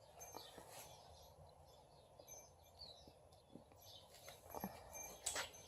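Near silence: faint room tone with a few faint sharp clicks, the plainest near the end, and a couple of faint high chirps.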